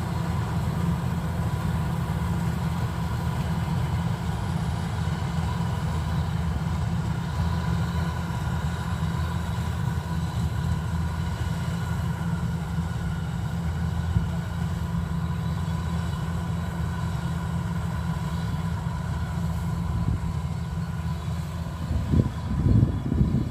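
Kubota DC93 combine harvester's diesel engine and machinery running steadily, a low rumble with a constant whine on top. A few louder bumps near the end.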